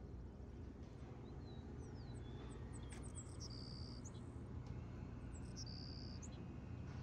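Faint high chirps and short whistles, bird-like, scattered between about one and six seconds over a low steady hum.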